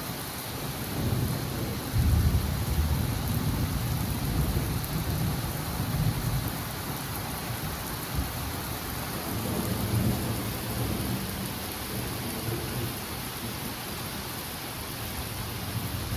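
Steady heavy rain with rolling thunder rumbling low, building about a second in and loudest for the next few seconds, then rumbling again around ten seconds in.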